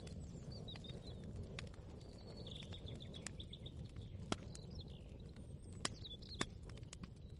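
Small birds chirping and twittering in short phrases over a low steady hum, with scattered light clicks and knocks; three sharper knocks come in the second half.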